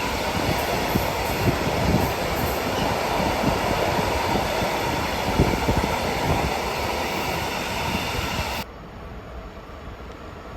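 A train passing close by: a steady rumble with repeated knocks of the wheels over the rail joints. It cuts off abruptly about two seconds before the end, leaving a much quieter background.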